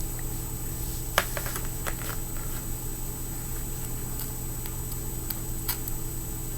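Small clicks and taps of fingerboard parts being handled during truck fitting, the sharpest about a second in, over a steady low hum.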